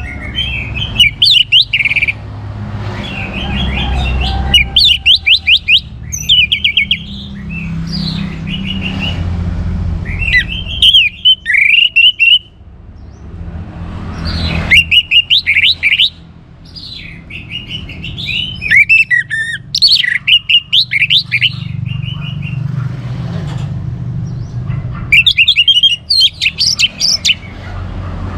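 Orange-headed thrush singing: bursts of rapid, varied whistled phrases, one every two seconds or so, over a low steady rumble.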